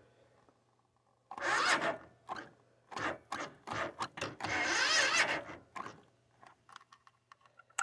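Vehicle engine cranking on its starter motor in several short tries and then one longer try of about two seconds, never catching: a cold engine that won't start.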